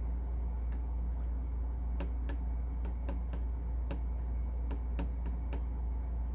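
Steady low hum with a run of light, irregular clicks starting about two seconds in.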